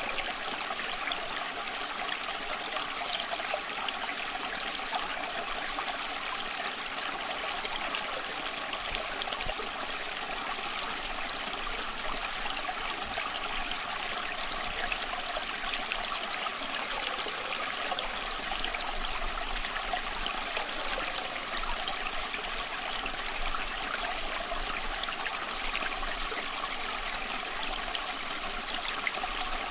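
Small stream flowing and trickling over stones, a steady, even babble of running water.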